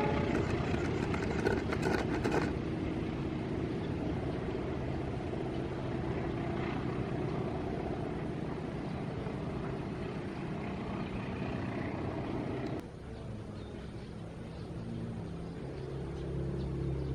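A passing train: steady rumble and rattle of the wagons on the rails. About thirteen seconds in the noise drops off sharply, and a low engine hum builds near the end.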